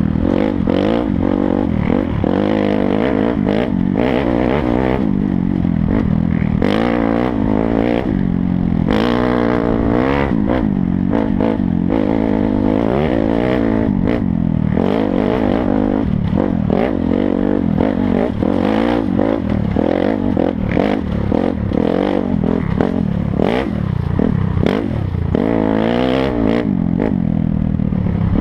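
Dirt bike engine revving up and falling back again and again while being ridden, with rattles and knocks from the bike over rough ground.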